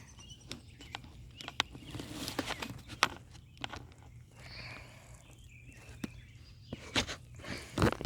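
Irregular rustling and light knocks, like footsteps moving over the ground, over a steady low hum.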